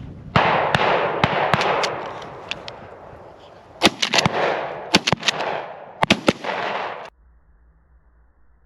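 A rapid, irregular volley of shotgun shots from several shooters firing at flushed pheasants, some shots in quick pairs, over a steady rushing noise. The shooting and the rushing noise cut off together about seven seconds in.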